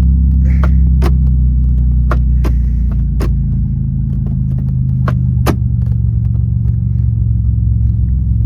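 Supercharged 3.8-litre V6 of a Pontiac Fiero idling, heard from inside the cabin, with a run of sharp clicks and clunks from the four-speed shifter and clutch being worked in the first five seconds or so. The shifter is being nudged into first and toward reverse, which the reverse lockout makes hard to engage.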